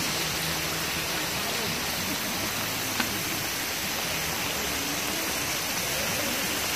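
Steady hiss of rain falling on open water, with one sharp click about three seconds in.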